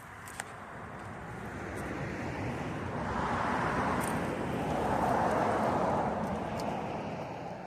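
A road vehicle passing by: its noise builds steadily, peaks about two-thirds of the way through, then fades away near the end.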